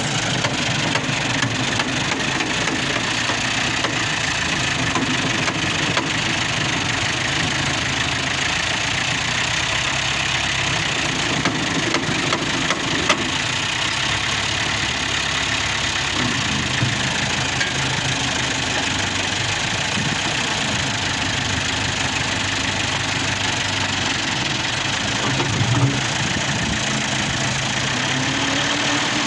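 New Holland 640 tractor's diesel engine running steadily, with a couple of brief knocks and its pitch rising near the end.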